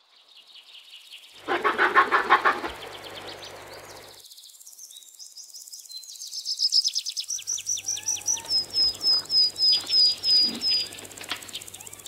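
Bird calls: a loud, rattling trill about a second and a half in, then a fast run of high, sharp chirps that slows to separate notes about two a second before stopping near the end.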